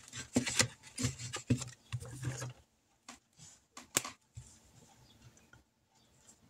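Colouring in on a paper savings chart: rustling and small knocks of paper handling, then quieter scratchy rubbing of the pen on paper with scattered ticks and one sharp click about four seconds in.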